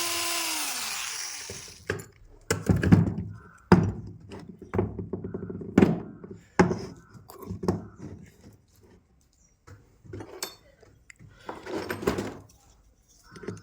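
2-26 hammer drill motor running and spinning down within the first two seconds, its whine falling in pitch as it stops. After that comes a series of irregular knocks and clunks from the tool being handled.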